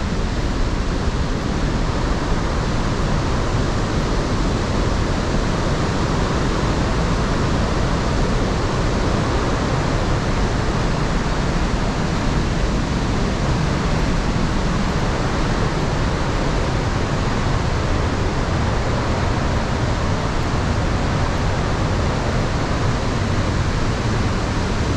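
Iguazu Falls, a great mass of water plunging over the falls, heard as a loud, steady roar that does not change.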